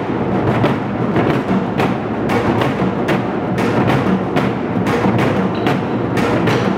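Ensemble of Korean moduk-buk barrel drums struck with sticks in a fast, driving rhythm, several strokes a second with no let-up.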